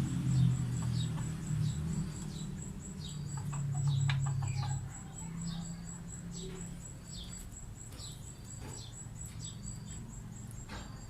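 A small bird chirping over and over: short, high, falling chirps about once a second, over a steady high insect trill. A low rumble fades out about five seconds in, and there are a few light clicks around four seconds in.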